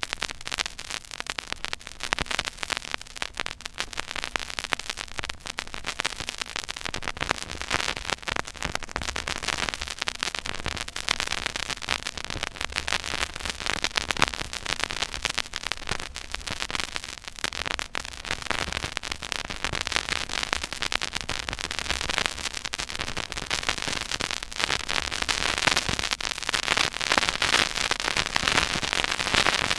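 Surface noise from the silent groove of a 12-inch vinyl record played at 33⅓ rpm: dense crackle and pops over a steady hiss, with a low rumble underneath. The crackle grows louder near the end.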